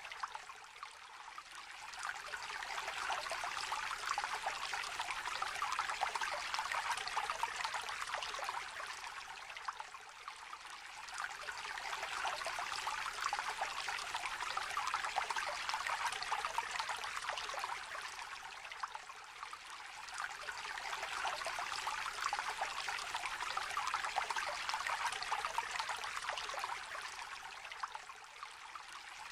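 Small shallow stream trickling and babbling steadily, swelling and easing roughly every nine seconds.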